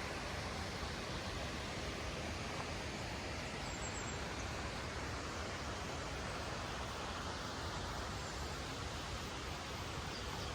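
Steady outdoor ambience: an even hiss with a low rumble underneath, with no distinct events.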